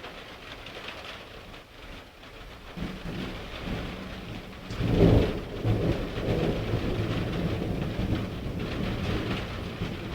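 Rain falling steadily with a long roll of thunder that builds about three seconds in, is loudest around five seconds, then keeps rumbling and slowly fades.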